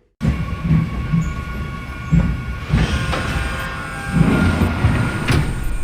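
Train sound effect: a train running along the track, a steady low rumble with repeated knocks from the wheels.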